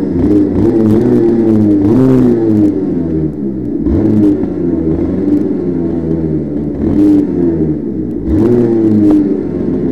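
A motor vehicle engine running hard, its pitch climbing and dropping several times as it revs and eases off, with brief clattering knocks.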